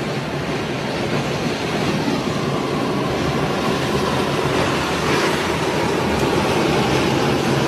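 A steady, loud rumbling rush of noise with no clear rhythm.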